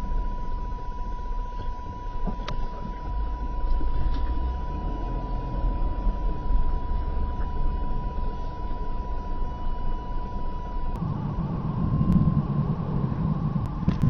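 CB radio receiver putting out RF interference: a hiss with a steady high tone over it, which shifts about eleven seconds in as a low rumble grows stronger. The uploader comes to believe the interference comes from an LED plant grow light.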